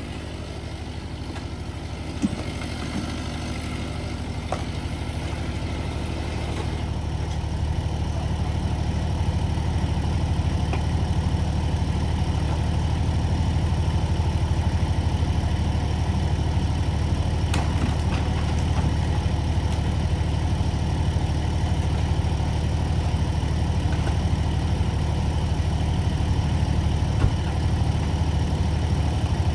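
A large engine running steadily at an even speed, its deep hum growing a little louder over the first several seconds, then holding.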